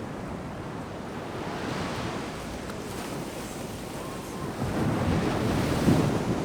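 Ocean surf washing on a sandy beach: a steady rush of breaking waves, with a louder wave surging in about two-thirds of the way through and falling back near the end.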